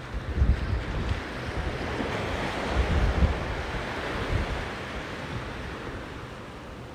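Sea surf washing onto a sandy beach, swelling about two seconds in and fading toward the end, with wind gusting on the microphone.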